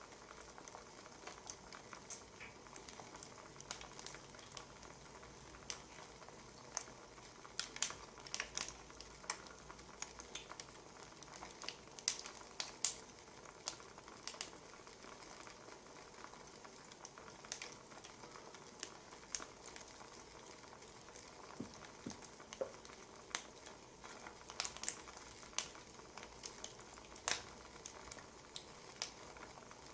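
Wood fire crackling: irregular sharp pops and snaps of burning firewood over a steady soft hiss.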